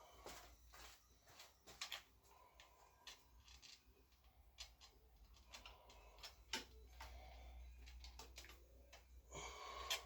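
Faint, irregular clicks and light taps of small motorcycle parts being handled and fitted by hand, with a brief louder rustle near the end.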